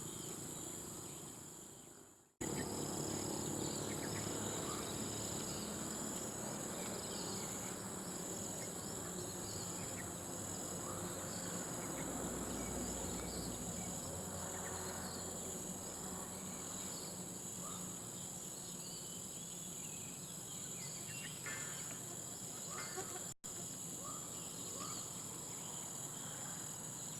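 Steady high-pitched chorus of insects over faint outdoor background noise, with a few faint chirps; the sound drops out for an instant about two seconds in and again near the end.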